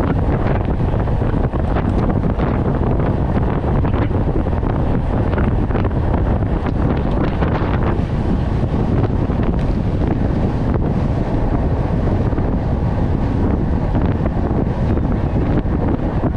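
Wind buffeting the microphone in a steady, loud rush of low noise.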